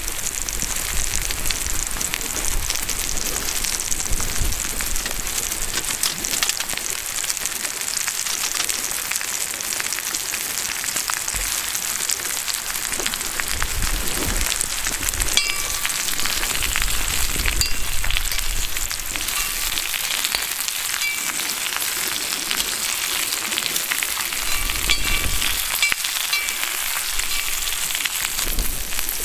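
Tofu and vegetables frying in oil in an iron pan: a steady, dense sizzle with fine crackling.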